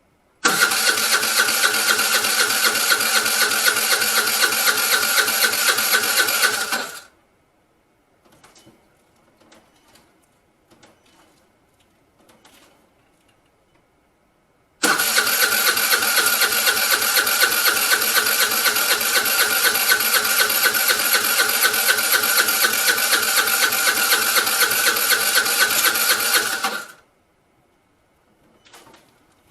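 Vespa scooter's electric starter cranking the engine in two long bursts, one of about six seconds and one of about twelve, with an even pulsing beat and the engine never catching: the scooter won't start. Faint clicks in the pause between the bursts.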